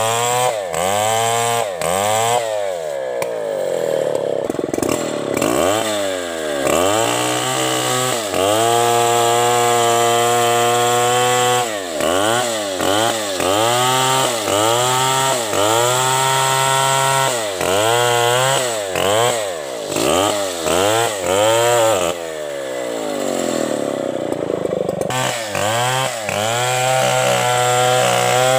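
Stihl 070 two-stroke chainsaw cutting through a coconut trunk at full throttle. Its engine note repeatedly sags and climbs back up as the chain bites in and frees again, with short stretches of steady high revs.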